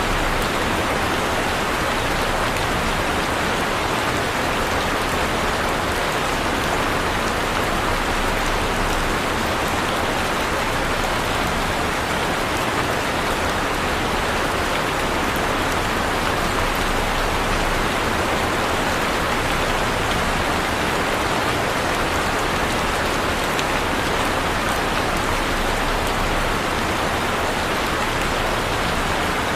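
Heavy rain falling steadily, a dense, even hiss of drops on a surface with no thunder or other events.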